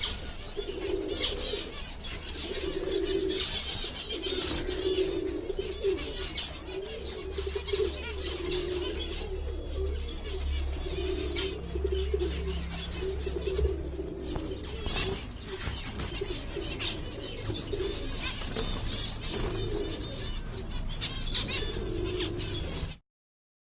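Aviary birds: a low dove-like cooing repeats about once a second, with finches chirping high over it. The sound cuts off suddenly near the end.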